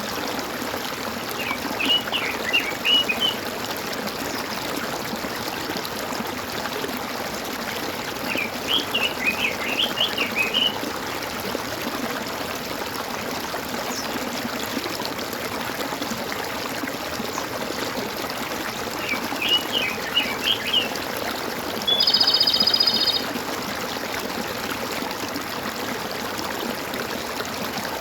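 Water gurgling and trickling steadily, with a bird singing three short phrases of quick chirps and, near the end, one held note about a second long.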